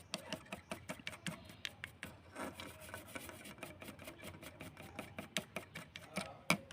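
Rapid, irregular clicking with rubbing and scraping between the clicks, and a sharper click near the end.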